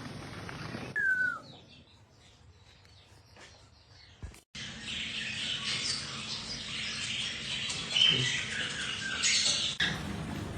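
Pet parrot calling: a short falling whistle about a second in, then scratchy chatter and squawks through the second half.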